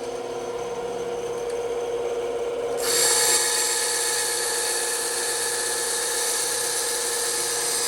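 Bandsaw running with a steady hum, its blade cutting into wood with a loud rasping hiss from about three seconds in.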